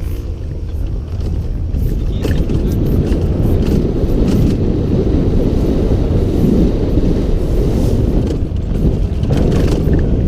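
Trail motorcycle engine running hard under load, heard close from a camera mounted on the bike, getting louder in the first couple of seconds, with scattered knocks and rattles from the bike over rough ground.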